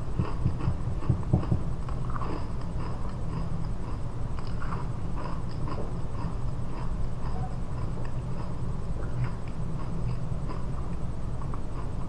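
Close-up chewing of a dry, crumbly chocolate almond cookie: a scatter of small crunching and crackling sounds, a little louder in the first couple of seconds, over a steady low hum.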